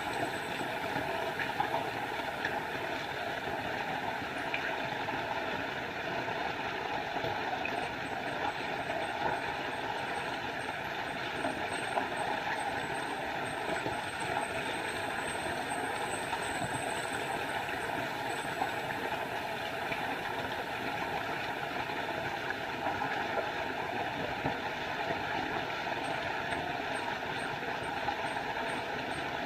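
Small forest waterfall: water falling and splashing in a steady, unbroken rush.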